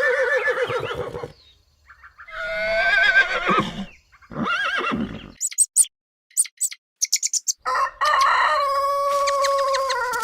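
Rooster crowing several times, the last crow a long drawn-out call near the end, with short high chirps in between.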